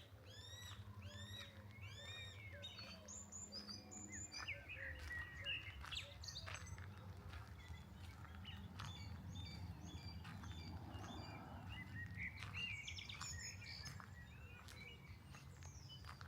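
Several songbirds singing: a series of repeated arching whistled notes, about two a second, for the first two or three seconds, then a mix of varied chirps and twitters, over a steady low background rumble.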